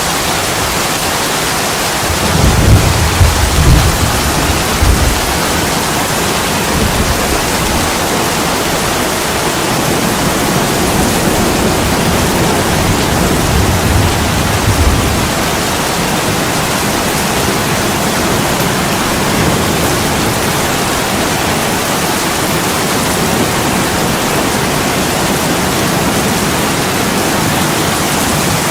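Steady heavy rain pouring on a window glass, with a low rumble of thunder about two to five seconds in and a fainter one around fourteen seconds.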